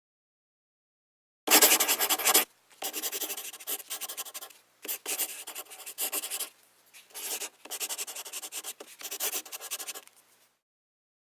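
Writing sound effect: scratchy strokes on paper in several bursts of rapid strokes with short pauses between them. It starts about a second and a half in, and the first burst is the loudest.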